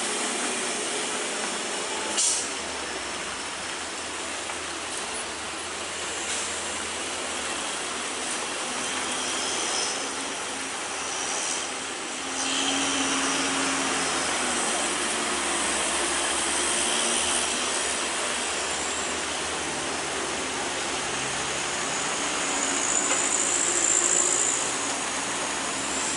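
Heavy rain hissing steadily on the road, with the low drone of truck engines pulling up the steep hairpin under it, and one sharp knock about two seconds in.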